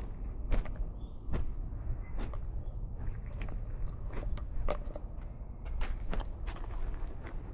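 Irregular crunching steps or scrapes on the ground, about one or two a second, over a low steady rumble, with faint high chirps from insects in the background.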